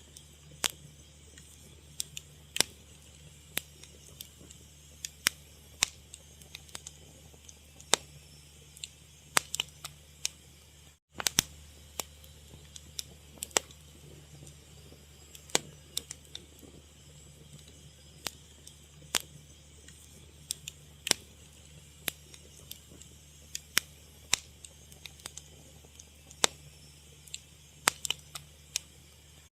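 Fire crackling, with sharp irregular pops and snaps over a low steady rumble. The sound cuts out for a split second about eleven seconds in.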